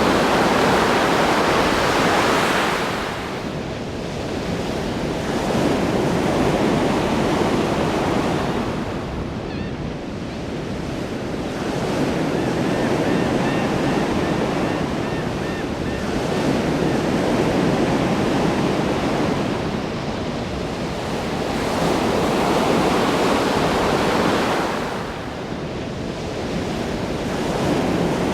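Ocean waves breaking on a shore, a continuous rush of surf that swells and falls back in surges every several seconds.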